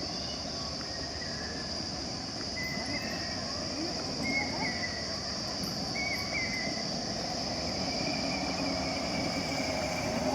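Insects chirring in a steady high drone over a low outdoor rumble, with a few short high chirps in the middle.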